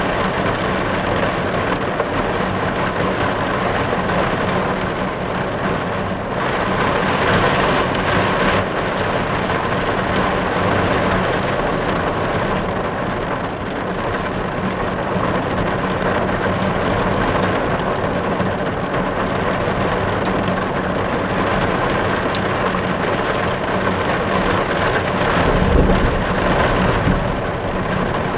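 Rain falling on a car's roof and windows, heard from inside the cabin: a steady noise that grows heavier for a couple of seconds about a quarter of the way in. Near the end there is a brief low thud.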